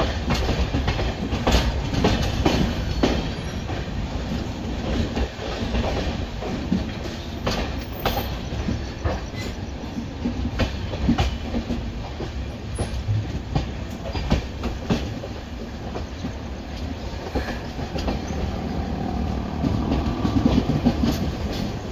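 Indian Railways express train running, heard from aboard: a steady low rumble of wheels on track with irregular clacks as the wheels pass over rail joints and points.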